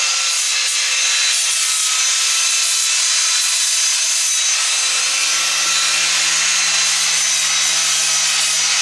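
Electric power tool, a sander or polisher, running continuously against the fibreglass hull: a steady grinding hiss over a motor hum. The hum drops away just after the start and comes back about halfway through.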